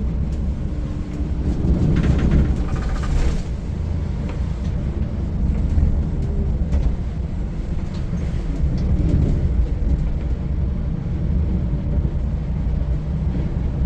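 Volvo B8R diesel engine of a Volvo 9600 coach running under way, a steady low drone mixed with road noise. It gets a little louder, with some brief rattles, about two to three seconds in.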